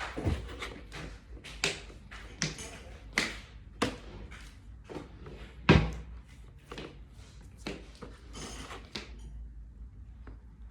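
A string of short knocks and clatters from objects being handled and set down, with one loud thud about six seconds in.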